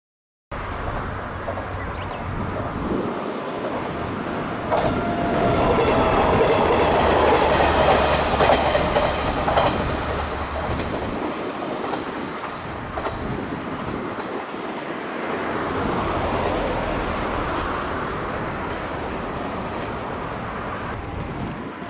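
A diesel railcar train passing close by, wheels clacking over the rail joints. It is loudest about six to nine seconds in, then fades as it draws away.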